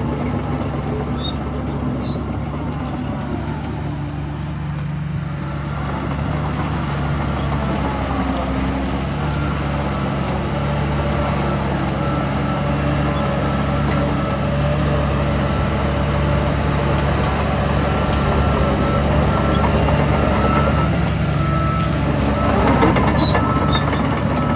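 Heavy diesel earthmoving machinery running steadily under load, the engines of a bulldozer and dump trucks working waste. One engine revs up briefly near the end.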